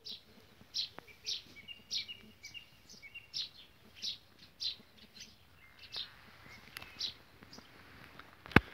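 Small bird repeating a short high chirp about every half second, with another bird's brief whistled notes in the first few seconds. A sharp knock near the end.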